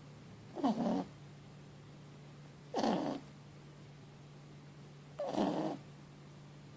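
Boston terrier–French bulldog puppy snoring loudly in its sleep: three rasping snores about two and a half seconds apart.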